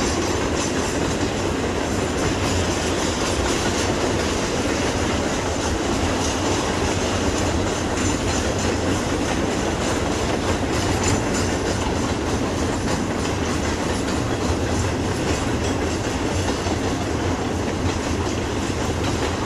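Double-stack intermodal freight train's well cars rolling slowly past, steel wheels rumbling and clicking steadily over the rails.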